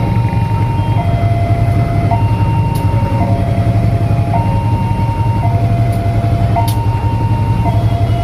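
Railway level-crossing warning alarm sounding an alternating two-tone signal, a higher and a lower note each held about a second, over the heavy low rumble of a train.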